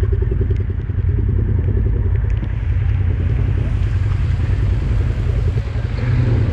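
Polaris ATV engine running under way, with a steady low rumble and an even firing rhythm that is clearest in the first couple of seconds.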